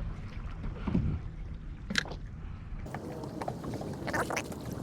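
Water lapping against a fishing kayak with a steady low rumble, a sharp knock about two seconds in, and a stretch of louder hiss from about three seconds in.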